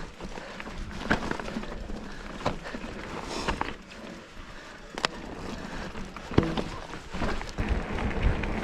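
Giant Fathom hardtail mountain bike rolling over a dirt singletrack: steady tyre and trail noise with irregular knocks and rattles as the bike hits bumps.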